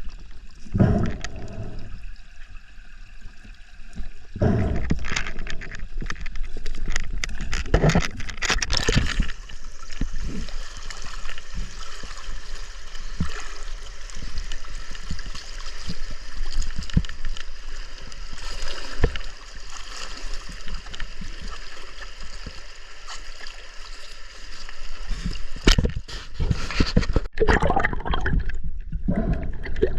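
River water gurgling and splashing close to the microphone, with many small knocks and louder surges now and then.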